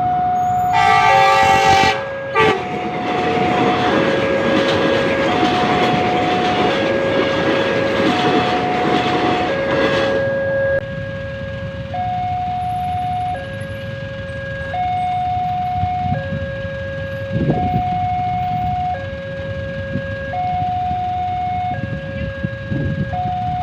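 Railway level crossing's two-tone electronic warning alarm alternating steadily between a lower and a higher tone. About a second in, a train horn sounds briefly. A train then runs past for about eight seconds, its noise stopping abruptly, while the alarm keeps going.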